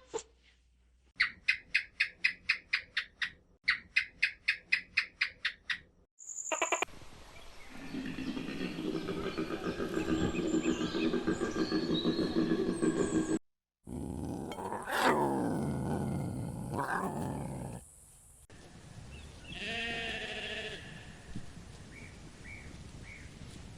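Calls of different farm animals, one clip after another: a run of rapid, evenly spaced calls, then a long rasping call, then a loud call that falls steeply in pitch, then quieter calls.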